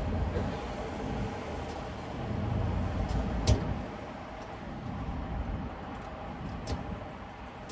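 Car driving on a highway: steady low road and engine rumble that eases off in the second half, with one sharp knock about halfway through and a few fainter clicks.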